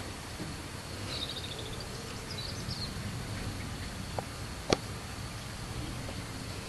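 Steady outdoor background noise with a continuous high, insect-like tone. A few short bird chirps come about a second in and again a second later, and two sharp clicks fall about four and a half seconds in.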